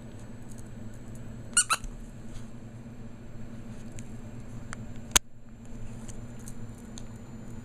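Two quick high squeaks about a second and a half in, then a single sharp click a little after the middle, with faint scattered ticks over a steady low hum.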